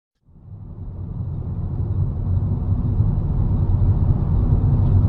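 A car driving: low, steady engine and road rumble that fades in from silence over the first two seconds, then holds.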